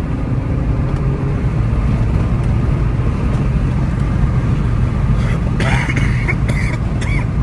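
Car engine running under way with steady road noise, heard from inside the cabin as a continuous low drone. A few short voice-like sounds come in about five seconds in.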